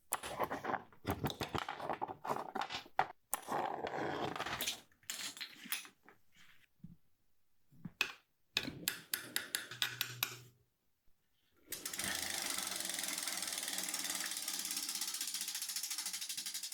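Bicycle freehub ratcheting as the wheel or cranks are turned: irregular bursts of clicking, then a steady run of fast clicks from about two-thirds of the way through.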